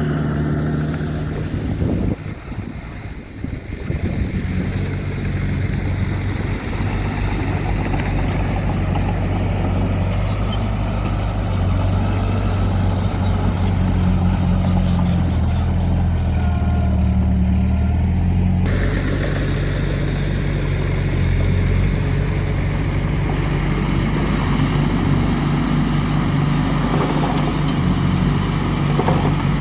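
Heavy earthmoving machine's diesel engine running at work, its pitch rising and falling with load. The level dips briefly a couple of seconds in, and the sound changes abruptly about two-thirds of the way through.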